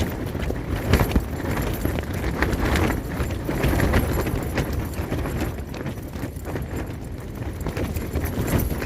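Storm-force wind battering a Hilleberg Soulo tent: a steady loud roar with the fabric flapping and slapping in rapid, irregular cracks through the gusts.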